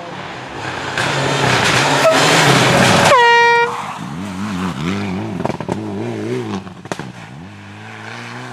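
Rally car engine at full throttle, growing loud about a second in, cut by a short air-horn blast about three seconds in. After it an engine note rises and falls repeatedly with a few sharp cracks, and near the end an engine note climbs steadily.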